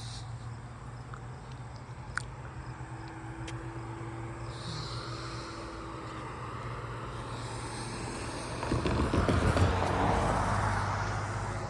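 Road traffic: a steady low hum, with a car passing by that swells and fades in the last few seconds.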